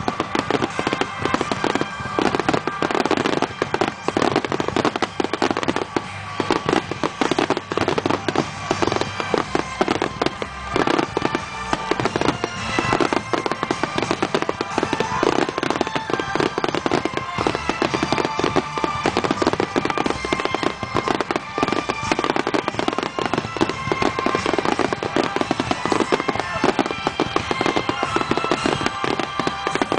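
Fireworks finale: a dense barrage of aerial shells bursting in rapid, overlapping bangs that never let up.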